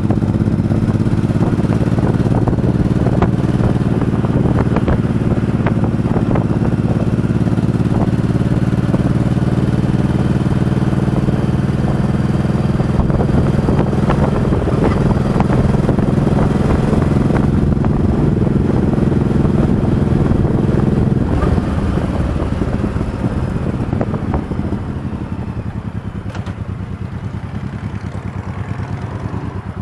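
Motorcycle engine running at a steady speed, then easing off a little over two-thirds of the way through and dropping to a lower, quieter pulsing as the bike slows.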